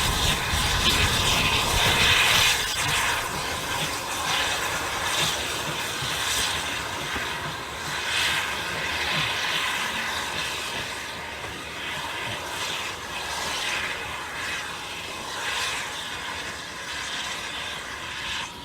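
A passing train running by and moving away, with a heavy rumble at first, then rail clatter and running noise that slowly fade until the sound cuts off at the end.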